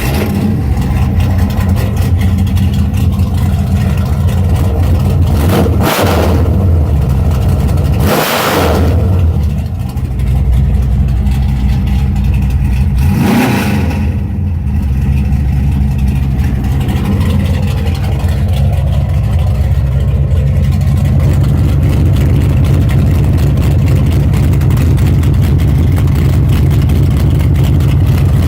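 1972 Dodge Dart Swinger's 440 big-block V8 running through a new 3.5-inch 304 stainless exhaust with Jones turbine mufflers and turn-downs. It idles with a deep rumble, is revved briefly three times in the first half, then settles back to a steady idle.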